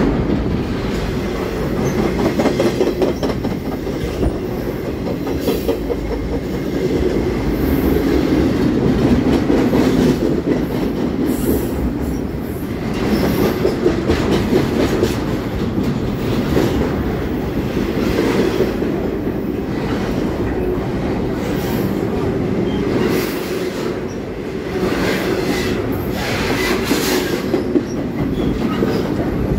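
Double-stack intermodal freight cars rolling past at close range: a steady, loud rumble of steel wheels on rail, with scattered clanks and clicks as the cars pass over rail joints.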